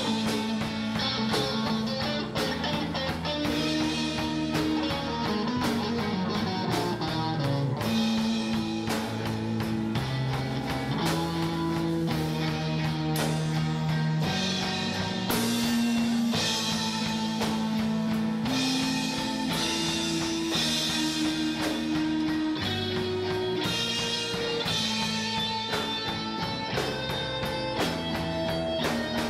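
Band playing rock music: guitar with drum kit, sustained notes shifting every second or two over a steady beat.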